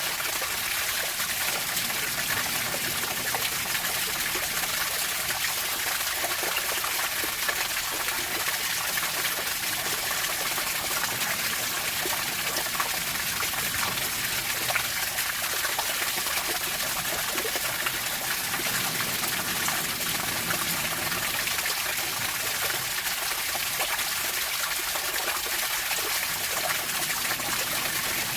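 Running water trickling and splashing, a steady, unbroken hiss.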